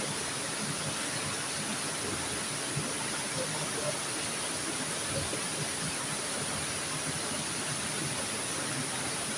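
Steady rushing of flowing river water, an even noise that holds without a break, with a constant high-pitched hiss above it.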